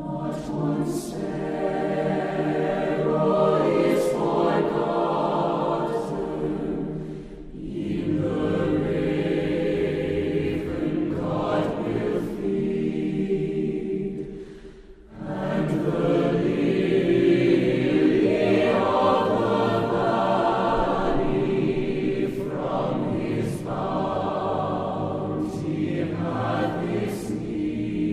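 A choir singing, in long sustained phrases with breaths between them about seven and fifteen seconds in.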